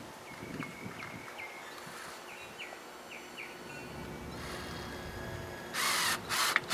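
Faint short bird chirps over a low background, then near the end two short, loud rasping zips: plastic cable ties being pulled tight through their locks.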